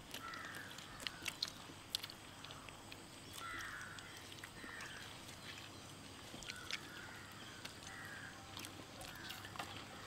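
Birds calling outdoors, short calls repeated every second or so throughout, with scattered faint clicks.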